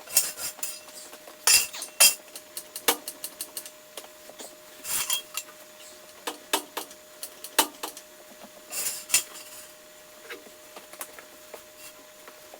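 Steel jack stands being set under a truck: irregular metal clanks and clinks, with a quick run of clicks about two to three seconds in.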